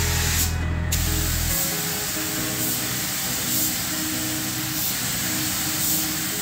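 Background music over the steady hiss of a paint spray gun. The hiss breaks off briefly about half a second in, and a low hum stops about a second and a half in.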